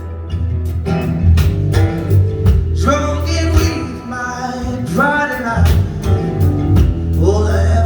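Live band playing a blues-soul song: electric bass, keyboard and drum kit under a bending, wavering lead line.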